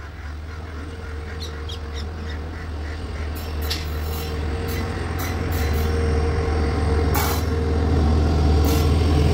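Train running on the rails, growing steadily louder: a deep rumble with a steady hum over it and scattered sharp clicks and knocks.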